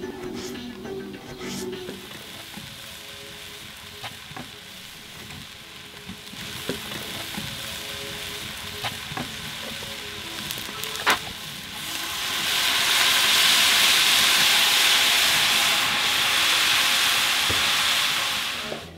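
Chopped meat and onions frying in a cast iron pot over a wood fire, with a few sharp clicks of a utensil. The sizzling swells to a loud, steamy hiss about twelve seconds in and cuts off abruptly at the end.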